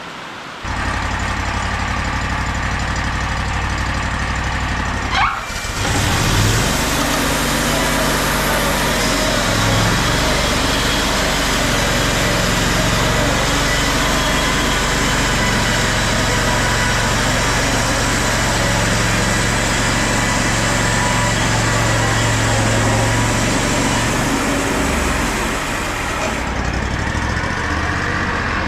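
Engine running steadily, its note shifting up and down with changing load, with a sudden break about five seconds in.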